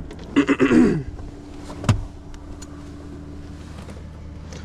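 A 2021 Ford Bronco idling as a low steady hum. Over it comes a short, loud whirring squeal lasting under a second near the start, then a single sharp knock about two seconds in.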